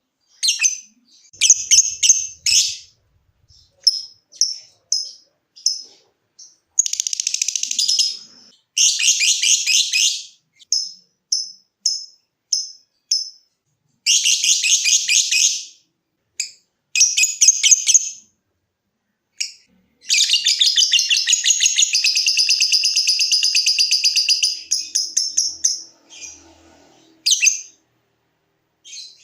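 Lovebird calling: short, sharp single chirps (ngetik) alternating with long runs of fast, rattling chatter (ngekek), the longest lasting about six seconds from about 20 s in.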